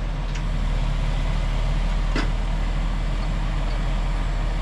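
An engine running steadily, a low drone, with one sharp knock about two seconds in.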